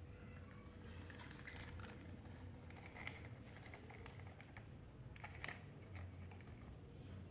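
Near silence: a low steady hum with a few faint light clicks and taps, the clearest about three seconds in and again near five and a half seconds.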